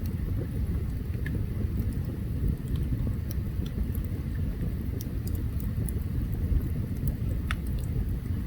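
Open campfire burning: scattered sharp crackles and pops over a steady low rumble.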